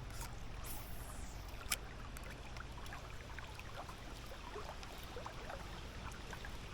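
Steady rush of river water, with one sharp click a little under two seconds in and scattered faint ticks.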